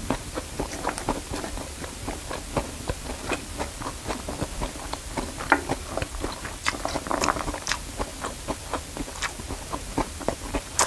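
A person eating nasi goreng (fried rice) close to a clip-on microphone: chewing with many short, irregular mouth clicks, and a spoon scraping the rice off its paper wrapping.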